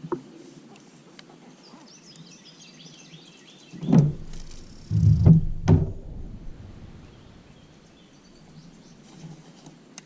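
A bird chirps and warbles faintly in the background. Then come two sharp knocks with a short low rumble between them, a little past the middle.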